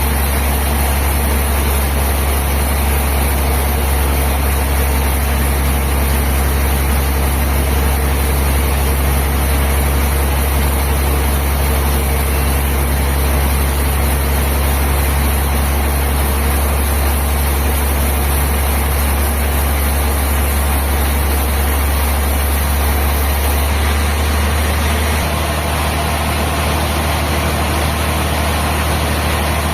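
Heavy sawmill machinery running steadily with a deep, even hum and no distinct cutting strokes; the sound shifts slightly about 24 seconds in.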